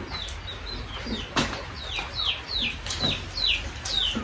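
A bird calling over and over, a quick series of high, falling peeps about three a second. Two sharp knocks come about a second and a half in and again about three seconds in.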